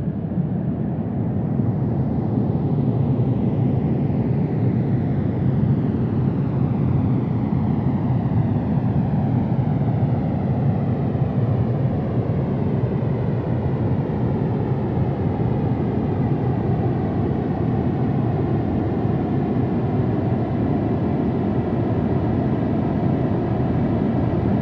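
Jet airliner engines passing close by: a loud, steady roar, with a slow phasing sweep that falls in pitch as the plane moves.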